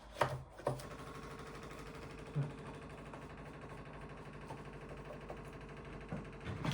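Small handheld steam cleaner running, its pump buzzing steadily at one pitch with a fast even pulse, as it first pushes water out before the steam comes. A few short knocks about the first second.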